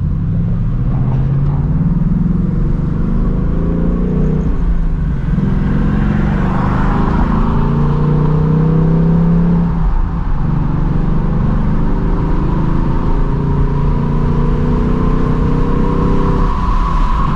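Ford Mustang GT's 5.0-litre V8 through its stock active exhaust, accelerating away with the engine note climbing and stepping down twice as it shifts up, then running at a steadier pitch.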